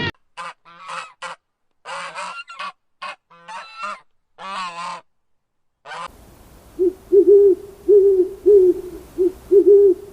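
Animal calls in two edited clips. First, a string of short, sharp pitched calls with dead silence between them. Then, from about six seconds in, a new recording with a steady background hiss and an even series of low hoots about twice a second.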